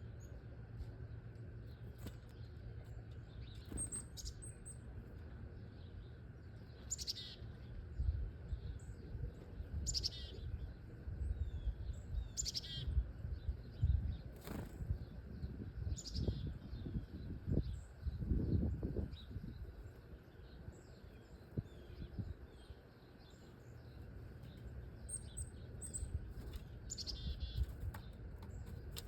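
Small wild birds giving short, high chirps every few seconds, with a run of low flutters in the middle that fit wingbeats.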